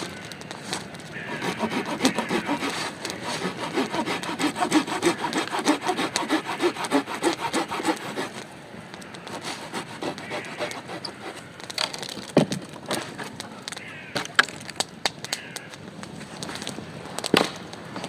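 A hand saw cutting through wood in quick, even strokes, about three a second, for some seven seconds, then stopping; a few sharp single knocks or cracks follow later.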